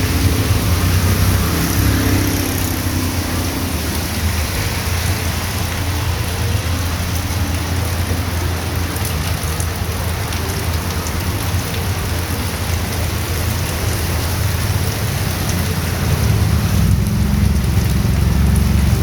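Heavy rain pouring steadily onto a street, with a deep low rumble beneath it that grows louder near the end.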